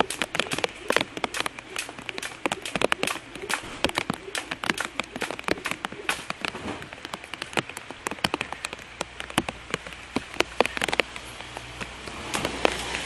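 Rain falling, with many irregular sharp drop hits on a surface close to the microphone.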